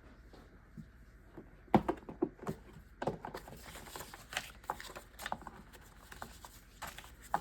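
Sheets of cardstock being flipped and shuffled in a 12-inch paper storage box: a run of quick, irregular rustles and taps that starts about two seconds in.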